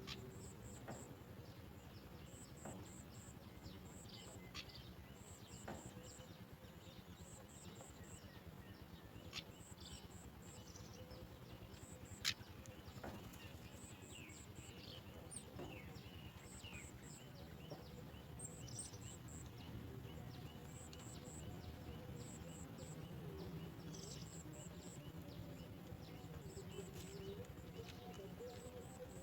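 Faint outdoor ambience of small birds chirping: very high, short chirps in quick groups of three or four, repeating every second or two, with scattered short calls over a low, steady rumble.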